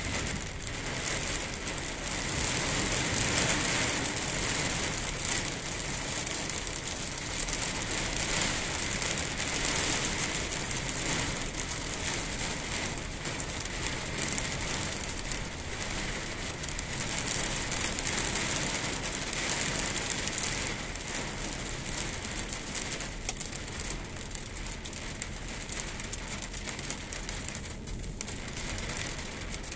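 Heavy rain pouring onto standing floodwater: a dense, steady hiss of drops hitting the water's surface, easing a little in the last several seconds.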